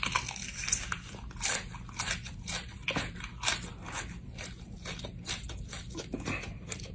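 Biting and chewing a raw habanero pepper: a run of sharp, irregular crunches.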